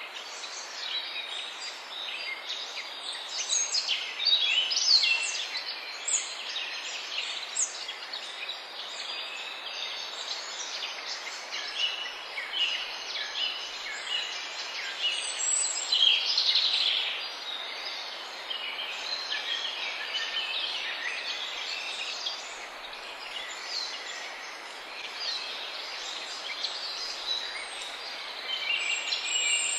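A chorus of many small birds singing and calling at once, with dense overlapping chirps and trills over a steady background hiss.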